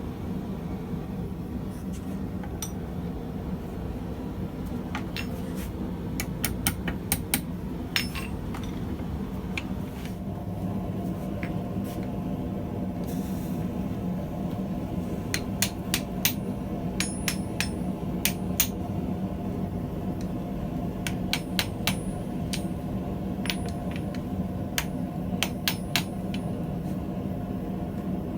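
Hand hammer striking hot steel on an anvil in short runs of sharp blows, with pauses between, over the steady rush of a propane forge burner.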